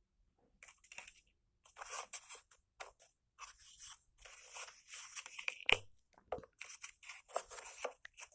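Pieces of a craft kit being pulled out and fitted together by hand: irregular rustling and crinkling, with a few sharp clicks as parts snap or press into place.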